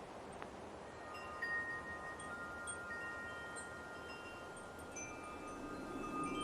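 Metal wind chimes ringing, several tones struck about a second in and then more, overlapping and ringing on. A soft, even wind hiss lies underneath.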